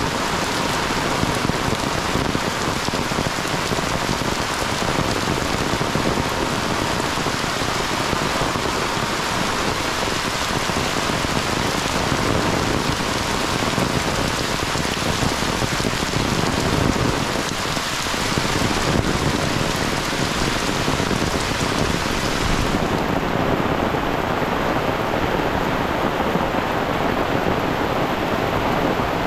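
Heavy rain pouring steadily onto a paved lane and surrounding trees, an even hiss. About three quarters of the way through, the brightest top of the hiss suddenly drops away and the rain sounds duller.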